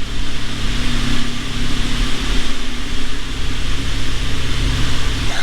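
Car engine running steadily, with a constant hiss above it.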